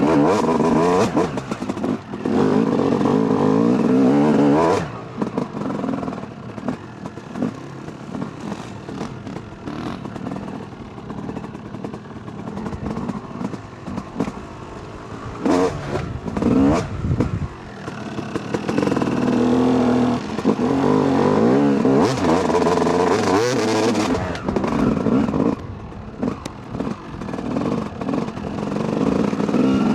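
Yamaha YZ250 two-stroke dirt bike engine on and off the throttle: loud high revs for the first five seconds, backing off to a lower, uneven running for about ten seconds with a short burst of revving near the middle, then pulling loud again for most of the second half.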